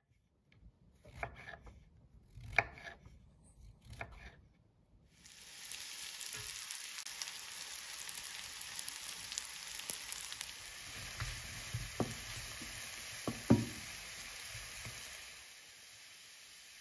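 Sliced brown mushrooms sizzling in melted butter in a frying pan, a steady hiss that starts about five seconds in. A few knocks of cookware come before it, and two sharp knocks against the pan come near the end.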